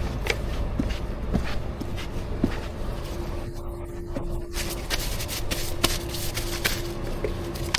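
Scattered small clicks and knocks of barista work in a coffee truck, over a steady low hum and a faint steady tone.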